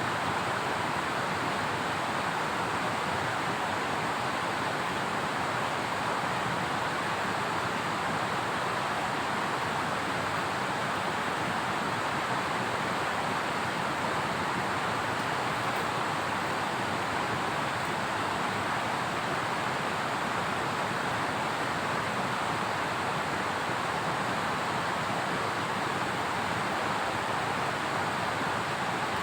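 Steady, unbroken rush of water at an even level, with no separate drops, knocks or tones.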